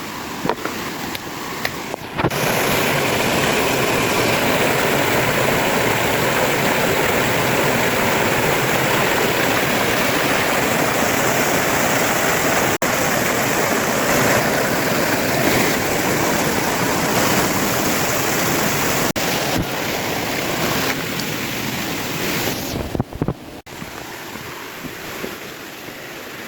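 Mountain stream waterfall rushing steadily, much louder from about two seconds in and softer again near the end, with a few sudden breaks.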